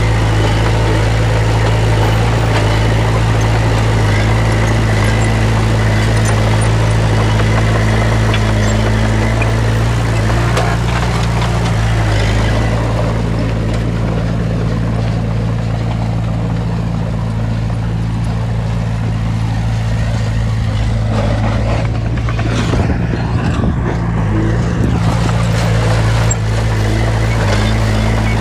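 Heavy diesel engine of earthmoving machinery running steadily at a constant pitch. A short rougher patch of knocks and noise comes about three quarters of the way through.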